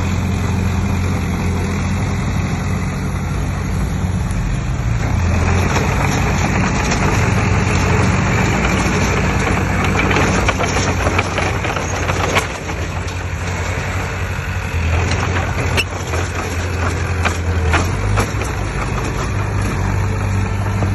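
Heavy diesel earthmoving machinery running steadily, with a noisy rush of scraping and rattling in the middle and a few sharp clanks.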